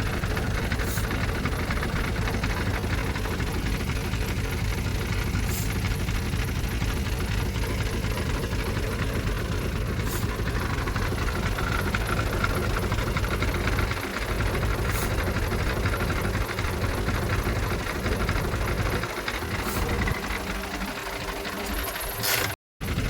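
Diesel engine of heavy earthmoving machinery running steadily under load, with faint high ticks every four to five seconds.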